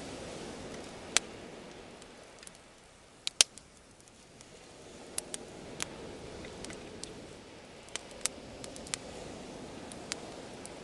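Bonfire crackling: irregular sharp pops and snaps of burning wood, the loudest pair about three and a half seconds in, over a steady low rushing noise that swells and fades.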